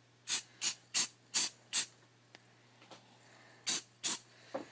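Aerosol spray-paint can sprayed in short hissing bursts: five quick puffs about three a second, a pause, then three more near the end.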